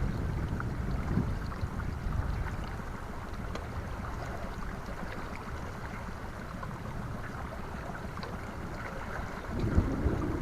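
Wind buffeting the microphone aboard a pontoon boat in high wind, with a low rumbling rush that is heavier at the start and swells again near the end. A single sharp knock comes just before the end.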